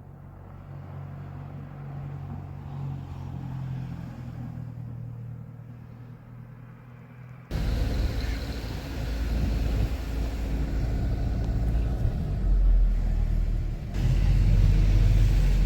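A car driving, with a steady low engine drone at first. About halfway through it cuts abruptly to much louder road and wind rumble, which grows louder again near the end.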